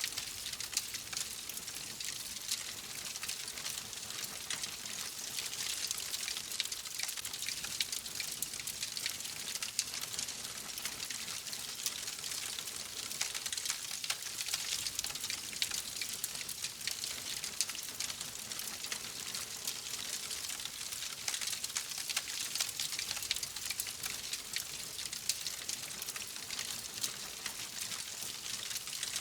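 Wood fire crackling steadily, a dense hiss full of small, quick pops and snaps.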